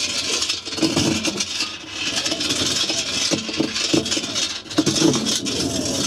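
Whirlpool WWDC 7210/1 washing machine running, its drum turning with recurring rattles and scrapes over a steady hiss. This is the abnormal noise the machine has developed.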